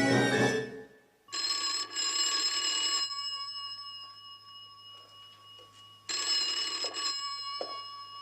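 Telephone bell ringing twice, each ring lasting under two seconds, with the bell tones hanging on between rings. Orchestral music ends in the first second.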